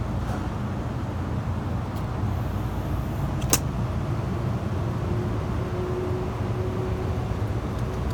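Steady low rumble of outdoor background noise, with one sharp click about three and a half seconds in.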